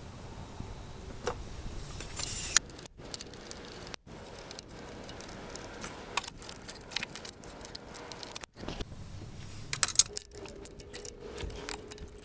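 Metal tools and parts clinking and rattling as they are handled, a string of sharp clicks and jingles, loudest about two and a half seconds in and again about ten seconds in.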